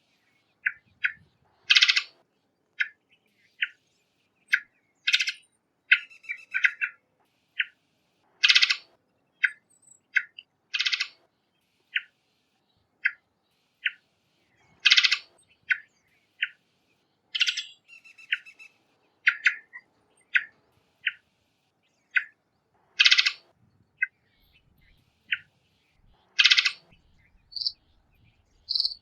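Varied thrush calling: a steady run of short chip notes, broken every few seconds by a louder, harsher call.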